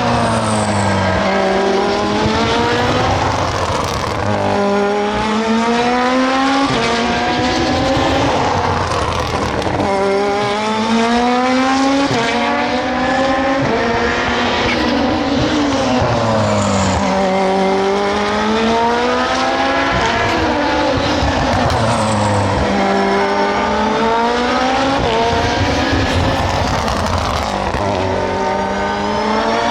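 SUPER GT race cars running hard, one after another. Engine pitch falls as they brake and downshift, then climbs in quick stepped upshifts as they accelerate away, and the cycle repeats several times.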